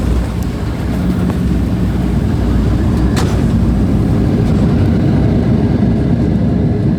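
Jet airliner cabin during the landing roll-out: a loud, steady rumble of the wheels on the runway and the jet engines, growing louder over the first few seconds as the engines spool up, with a brief sharp click about three seconds in.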